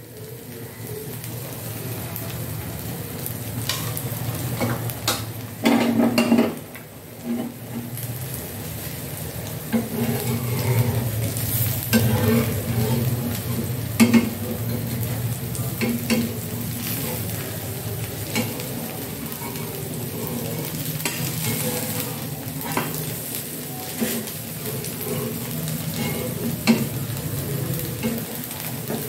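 A rice-flour chilla sizzles steadily in oil on a hot tawa while it fries on its first side. Now and then a metal spoon or spatula clicks and knocks against the pan.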